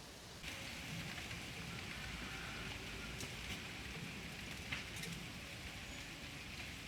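A steady hiss that starts about half a second in, with a few sharp clicks or crackles scattered through it.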